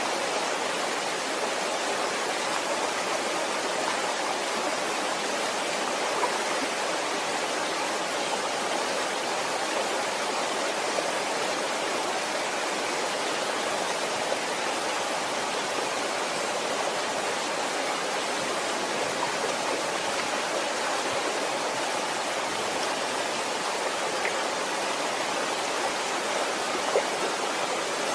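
Waterfall: a steady, even rush of falling water with a few faint splashes.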